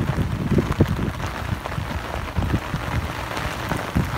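Heavy rain falling, a steady hiss with irregular low thumps of drops or gusts hitting close to the microphone.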